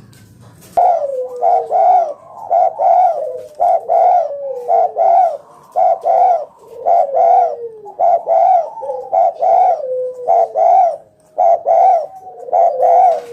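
Spotted dove (tekukur) cooing vigorously: a long run of repeated, closely spaced coos starting about a second in, with overlapping falling notes beneath them.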